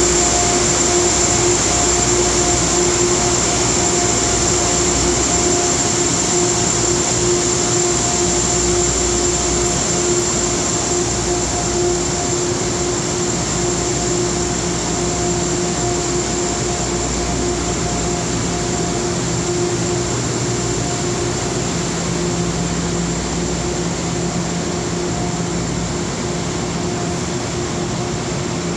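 Amtrak P32 locomotive-hauled test train running steadily: a constant hum with a high whine over a low rumble, slowly fading.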